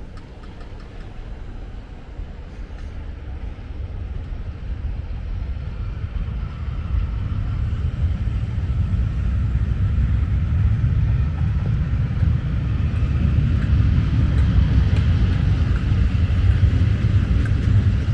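Diesel-hauled charter train pulling out, a low locomotive rumble with wheel and rail noise that builds steadily louder as it gets going.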